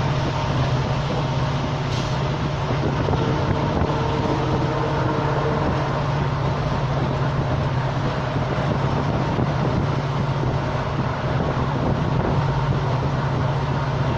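Passenger train running steadily, heard from on board: the coach's continuous rumble on the rails with a steady low hum and wind noise.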